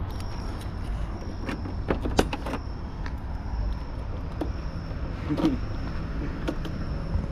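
A motor vehicle running with a steady low rumble and a faint high whine. Several sharp clicks and rattles sound over it, the loudest about two seconds in.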